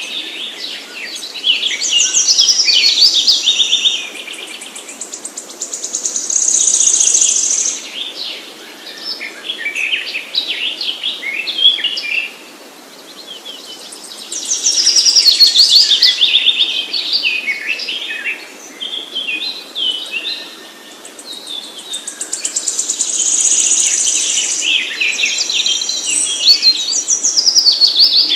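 Songbirds chirping and trilling in rapid, high-pitched phrases. The song comes in loud bouts every several seconds, with short quieter lulls between.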